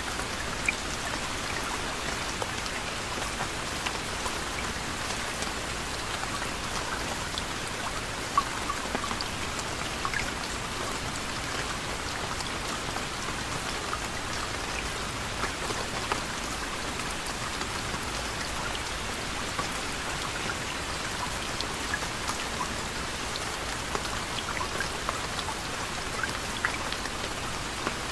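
Steady soft rain, a constant hiss with many individual drops ticking sharply on a surface.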